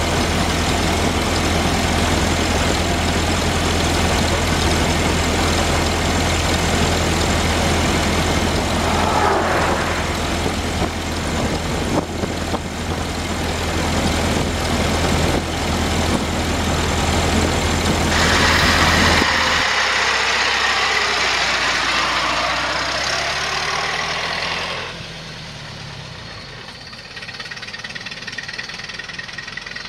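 1914 Ford Model T's four-cylinder engine running at road speed, heard from the driver's seat as a steady low hum under wind and road noise. About two-thirds through, the sound changes and then drops to a quieter, more distant engine sound.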